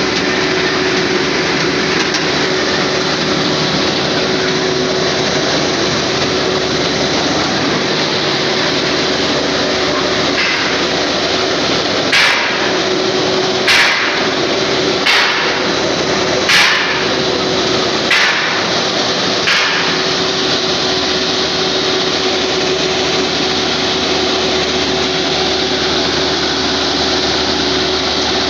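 John Deere engine driving a side boring machine, running steadily. Midway through there are six sharp knocks about a second and a half apart.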